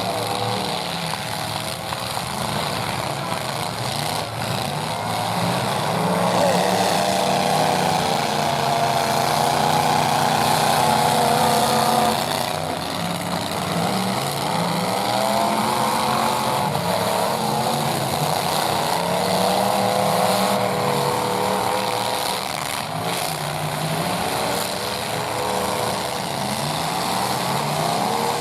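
Several full-size pickup truck engines revving and running hard together in a demolition derby, pitch repeatedly rising and falling, with a few sharp knocks from the trucks hitting one another.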